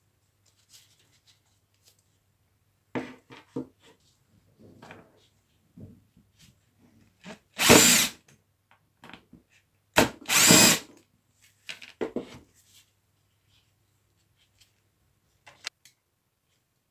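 A power tool's motor running in two short bursts, about two seconds apart, amid scattered clicks and knocks of parts being handled.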